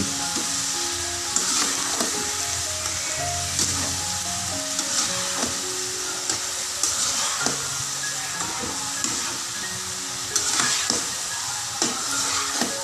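Soya chunks frying with onion and green bell pepper in a nonstick wok, a steady sizzle, with a slotted metal spatula scraping and knocking the pan every second or two as it stirs. Background music plays underneath.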